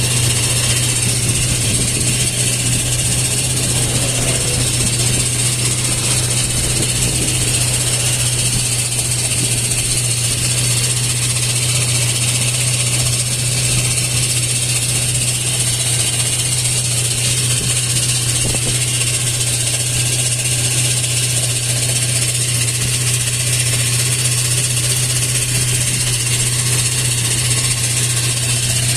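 Toyota 4Runner engine idling steadily with the strange noise the mechanic traces to pieces of its broken aluminium starter housing lodged behind the torque converter.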